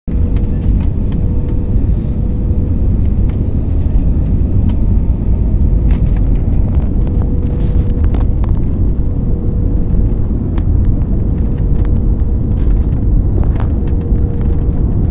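Aeroplane landing, giving a loud, steady low rumble with a constant hum over it and scattered faint clicks.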